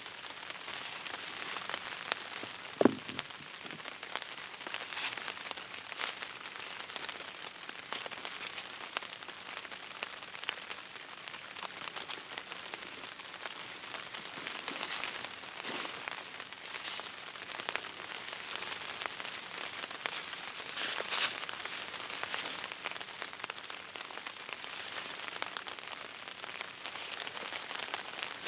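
Steady rain falling, with scattered individual drop hits, and a single sharp knock about three seconds in.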